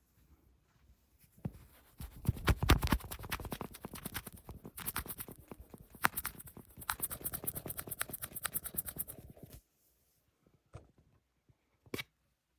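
ASMR scratching and tapping: a dense run of quick scratching strokes starts about two seconds in and runs for about seven and a half seconds, then stops suddenly and is followed by two or three single taps.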